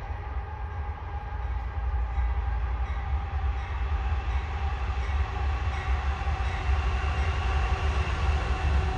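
CSX freight train with diesel locomotives running by, a steady low rumble with a few sustained tones above it, growing gradually louder.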